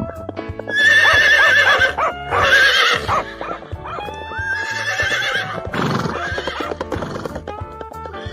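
An animal giving three long, wavering, high calls in the first half, over steady background music.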